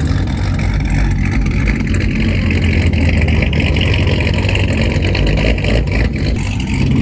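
Pontiac G8 running as the car drives slowly: a steady low engine note, with a higher hiss that swells for a few seconds in the middle.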